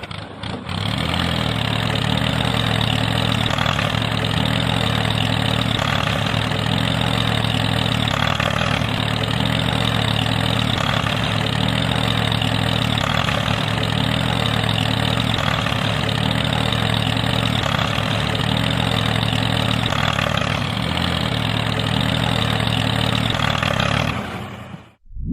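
An engine idling steadily, starting about half a second in and cutting off abruptly shortly before the end.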